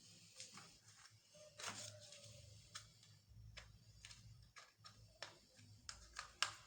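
Near silence with faint, scattered short clicks and taps, about a dozen at uneven intervals.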